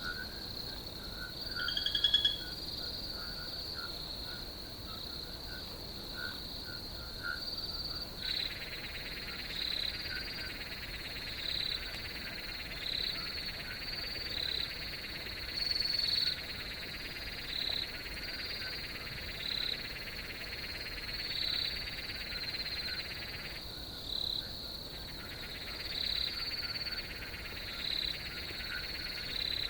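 Night chorus of crickets: a high chirp repeats about once a second over softer calls. A steady, buzzing trill comes in about eight seconds in, drops out for a second about two-thirds of the way through, then resumes. One louder, short chirp comes about two seconds in.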